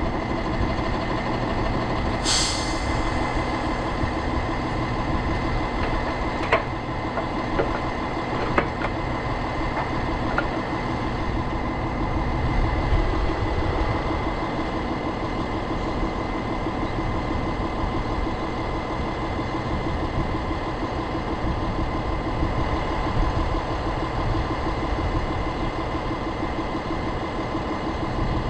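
Tow truck's engine idling steadily, with a short hiss of air about two seconds in and a couple of sharp metallic clicks a few seconds later.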